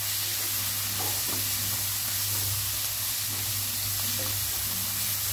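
Chopped fenugreek leaves sizzling in hot oil in a nonstick kadai over a high flame, stirred with a wooden spatula: a steady frying hiss with a low hum beneath and a few soft spatula scrapes.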